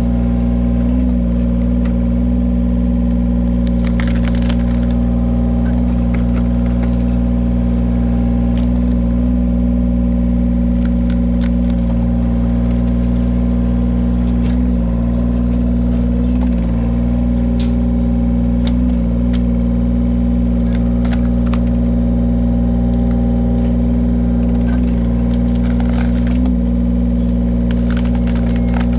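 Engine-driven wood-splitting machine running steadily, with logs cracking and splintering apart several times as the cutter splits them.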